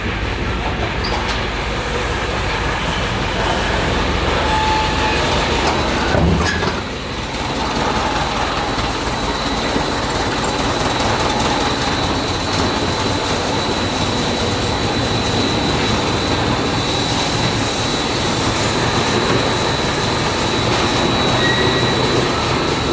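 Steady heavy industrial machinery running, a dense rumbling clatter with a thin high whine over it, and a single heavy knock about six seconds in.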